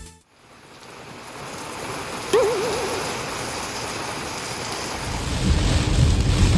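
Heavy rain falling steadily, fading in just after the start. A short wavering tone sounds about two and a half seconds in, and a low rumble builds near the end.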